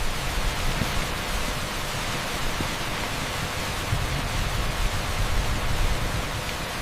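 Heavy downpour of rain on an asphalt street: a steady, dense hiss with a low rumble underneath.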